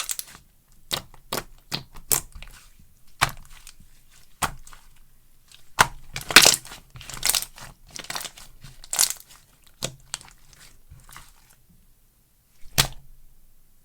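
Slime being worked by hand, making irregular sharp crackles and pops, with a louder pop near the end.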